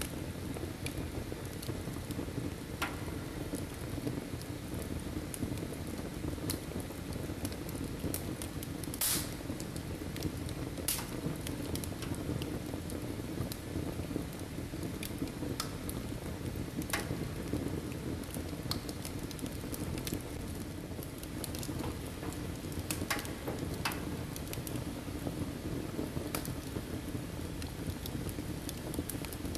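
Firewood burning in a fireplace: a steady low rush of flame with irregular sharp crackles and pops, a handful of them louder than the rest.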